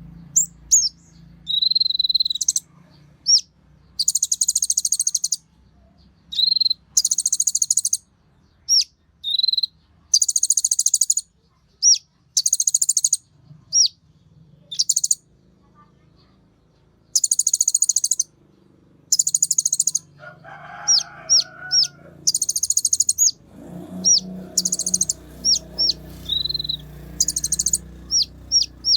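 Kolibri ninja sunbird singing energetically: repeated buzzy, very high trills of about a second each, mixed with short sharp chips and brief steady high whistles. Fainter, lower background sounds join about two-thirds of the way through.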